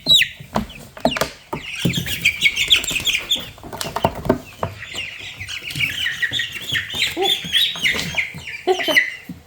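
A crowd of two-week-old meat-bird (broiler) chicks peeping, many short high chirps overlapping without a break. Scattered knocks and rustles come from the chicks being handled and moved.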